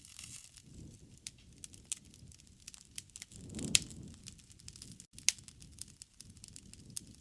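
Campfire burning: wood crackling with irregular sharp pops and snaps over a low rumble of flame, swelling louder with the loudest pop about halfway through.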